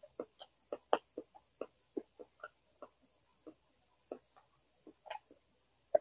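Close-up chewing: an irregular run of short, soft mouth clicks and smacks, about three a second.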